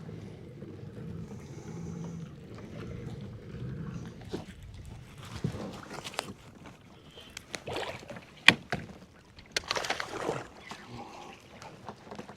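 Gear and fish being handled aboard a fishing kayak: scattered clicks, knocks and rustling, with one sharp click about eight and a half seconds in, over a low rumble of water and wind.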